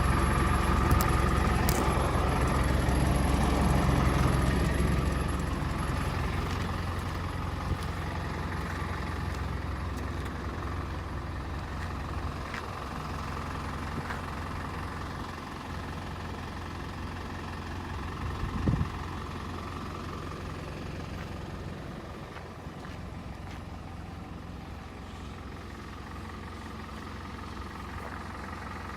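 Truck engine idling steadily. It is louder for the first few seconds, then quieter, with a brief thump about nineteen seconds in.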